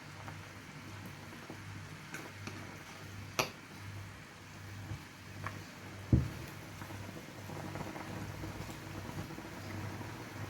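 A pot of curry chicken feet simmering, with faint bubbling and patter. A sharp click comes about three and a half seconds in, and a louder thump about six seconds in.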